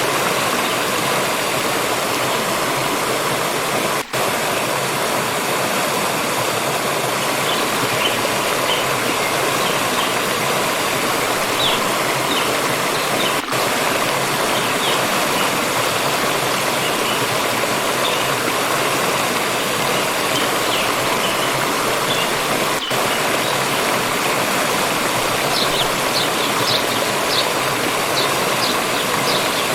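Water stream running with a steady, even rush. Faint, short, high bird chirps come through now and then, with more of them near the end.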